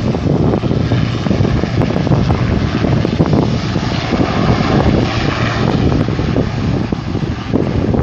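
Propeller airplane engine running loud and steady, swelling a little in the middle, with gusty wind rumble on the microphone.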